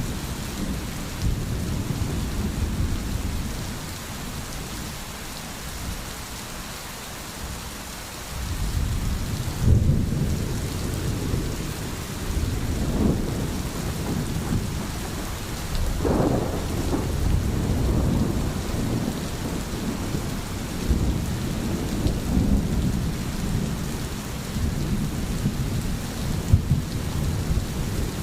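Steady rain with rolling thunder. A low rumble builds about a third of the way in, and another comes past the middle.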